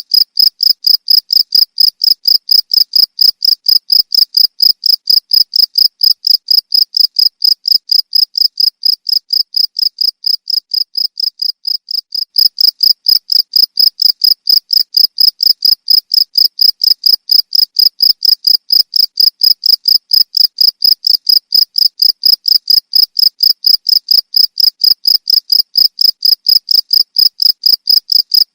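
Cricket chirping: an even string of high-pitched pulses, about three to four a second, easing slightly in level for a few seconds in the middle.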